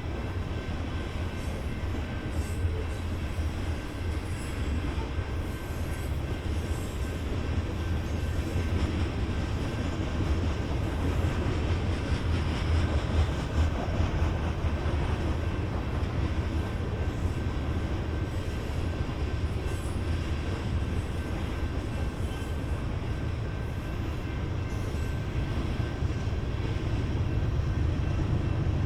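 BNSF freight train rolling past, its cars making a steady low rumble on the rails, with faint steady high tones above it.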